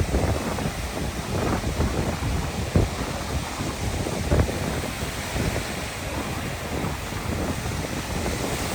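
Rough lake waves breaking and washing up on a sandy beach, with wind buffeting the microphone.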